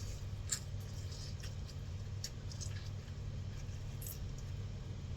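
Soft squishy handling of kinnow (mandarin orange) segments being pulled apart and added to a bowl of fruit, with a few sharp little clicks. A steady low hum runs underneath.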